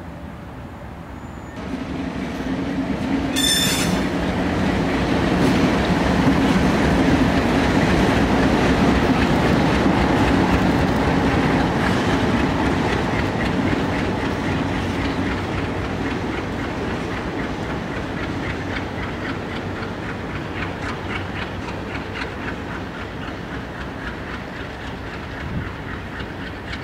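A diesel-hauled freight train passing close by. The locomotive's engine runs loudest about seven seconds in and then fades, while the cars' wheels keep up a rhythmic clicking over the rail joints. A brief high wheel squeal comes about three seconds in.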